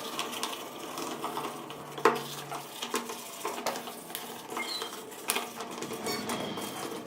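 Irregular metallic clinks and taps of tools and small metal parts being handled, with one sharper clack about two seconds in.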